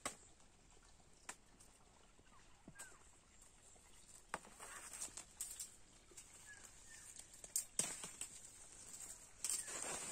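Quiet outdoor yard ambience: scattered light clicks and rustles, a few brief faint bird chirps, and a steady high hiss, with louder rustling and handling noise near the end.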